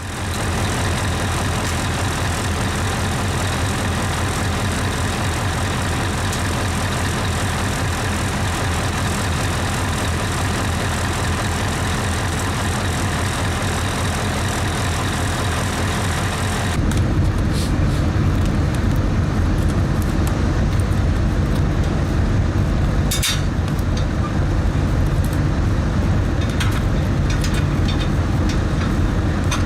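Steady diesel engine running at rest on a truck, then a change a little past halfway to a deeper, heavier engine sound, with a few sharp clicks.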